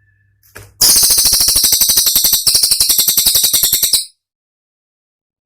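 Cililin song: a loud, very fast run of sharp, high-pitched notes ('tembakan') starting about a second in, with a brief break midway, then cutting off suddenly about four seconds in.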